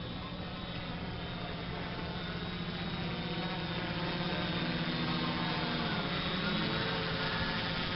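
Multirotor drone's electric motors and propellers humming steadily, the pitch shifting briefly about six seconds in, getting slightly louder toward the end.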